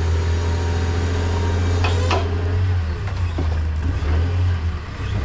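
A vehicle engine running steadily with a low hum, with a sharp knock about two seconds in.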